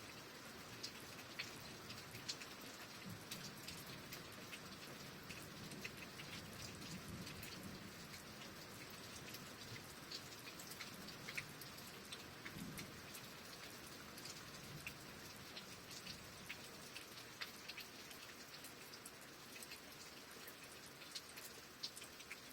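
Steady rain, with many separate drops ticking sharply on a surface over the even hiss of the downpour.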